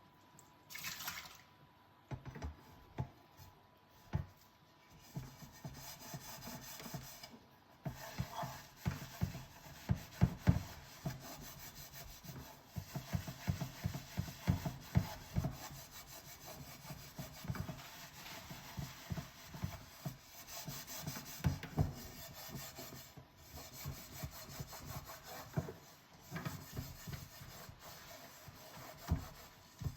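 Dishes being washed by hand: steady scrubbing and rubbing on tableware, with many light knocks and clinks as dishes are handled. The scrubbing picks up a few seconds in, after a few separate knocks.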